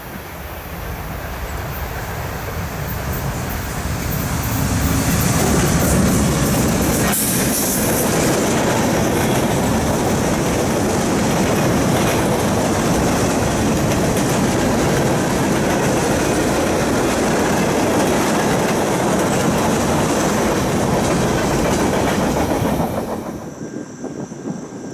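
Train passing close by, its wheels running over the rails. The sound builds over the first few seconds, holds loud and steady, and cuts off abruptly near the end.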